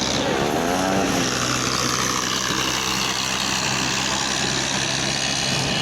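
Tractor engine running steadily, with a pitch that swells and dips in the first second and a higher whine that slowly falls across the next few seconds.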